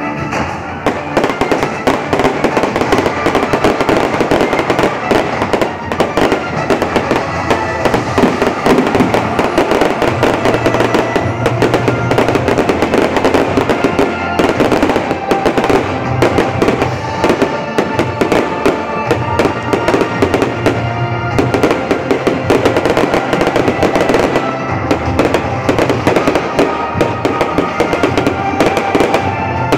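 Fireworks display: a dense barrage of shells and rockets bursting and crackling without pause, over show music playing throughout.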